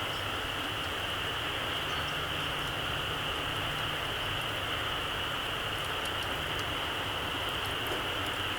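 Small campfire burning low, with faint, sparse crackles and ticks over a steady high-pitched hiss.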